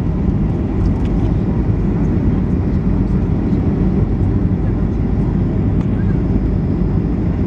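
Steady low roar of a Boeing 737-800 in flight, its jet engines and rushing air heard from inside the passenger cabin.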